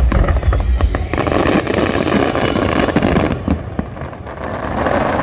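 Aerial fireworks going off in a rapid barrage: deep booms for about the first second, then a long spell of dense crackling from many shells bursting at once.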